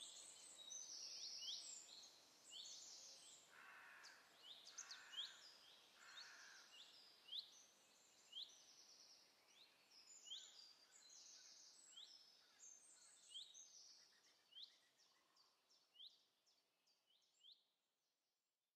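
Small songbirds calling: a steady series of short, sharp rising chirps, about one or two a second, with a few lower buzzy notes a few seconds in, fading away near the end.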